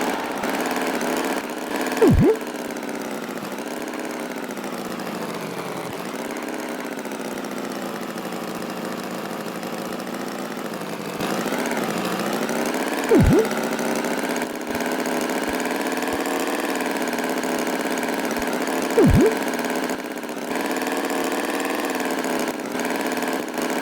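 Cartoon tractor engine sound effect running steadily, its pitch wavering slowly, with three short, loud swooping blips spread through it.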